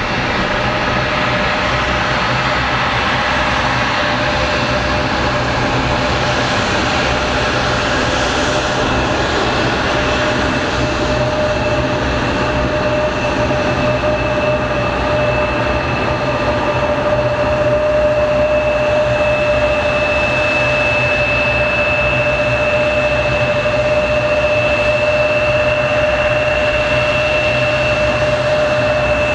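Jet engines of an Airbus A319 running steadily: a broad roar with a steady whine on top, whose higher tone grows stronger about a third of the way in.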